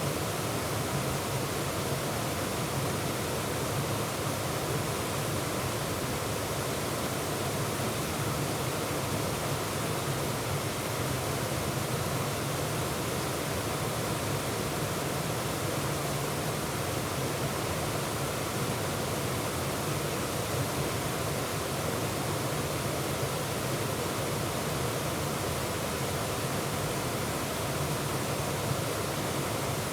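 Bear's Den Falls waterfall rushing steadily, a dense, unbroken roar of falling and churning water heard close up from the middle of the falls.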